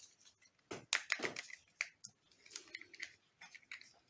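A series of small clicks and scrapes from hand-handling small tools and containers at a work table.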